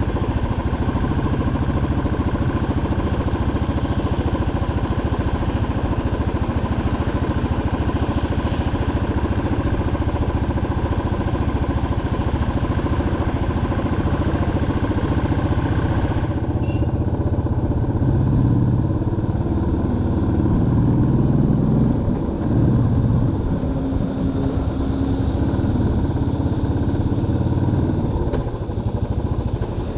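Motorcycle engine running steadily while riding, with continuous road noise. About halfway through, the high hiss above it cuts out suddenly, and the low engine note becomes more uneven afterwards.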